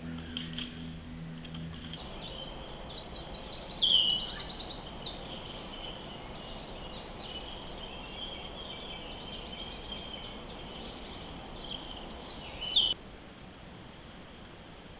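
Birds calling with high-pitched chirps and rapid trills, loudest about four seconds in and again near thirteen seconds, when they cut off suddenly.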